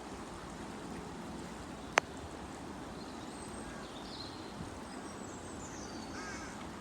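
Steady outdoor background hiss at a duck pond, with a few faint distant bird calls and one sharp click about two seconds in.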